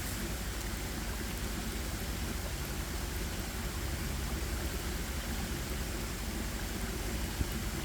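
Steady, even rushing outdoor noise with no distinct events, heaviest in the low end, and one brief click about seven seconds in.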